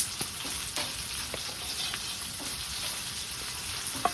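Kuroge wagyu steak sizzling as it cooks, a steady hiss of frying juices broken by a few sharp spitting pops.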